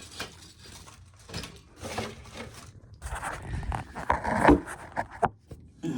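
Irregular scraping and rustling handling noises, with a busier run of louder scrapes and knocks from about three to five seconds in and a couple of sharp clicks near the end.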